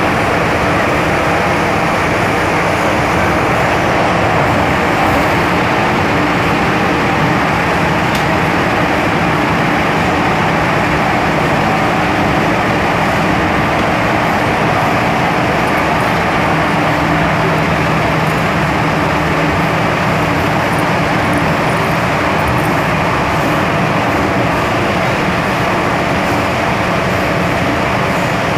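Cabin noise of an MTR M-Train running at speed in a tunnel: a steady, loud rumble of wheels and running gear, with faint steady hum tones underneath.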